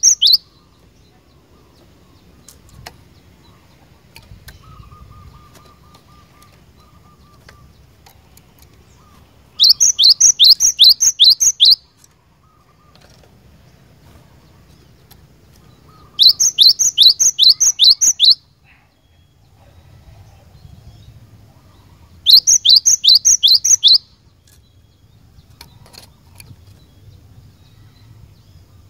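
Cinereous tit (glatik batu) singing: three bouts of quick, repeated high notes, each note sweeping downward. Each bout lasts about two seconds, with about six seconds of quiet between bouts.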